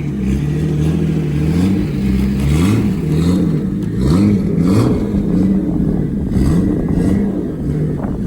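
A car engine revving up and down repeatedly, its pitch climbing and dropping about once a second.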